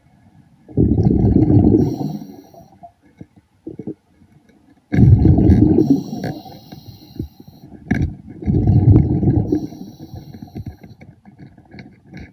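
A diver breathing underwater through a regulator: three loud gurgling bursts of exhaled bubbles, each about a second long, about three to four seconds apart, with a faint hiss of inhaled air between them.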